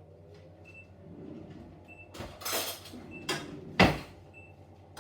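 Kitchen handling sounds: a rustling swish about two seconds in, a knock, then a sharp bang just before four seconds, like a cupboard or appliance door shutting. A faint short beep repeats about once a second throughout.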